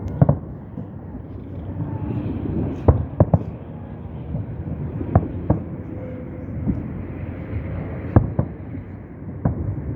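Fireworks salute shells bursting: sharp bangs at irregular intervals, several in quick pairs or threes, over a steady low rumble.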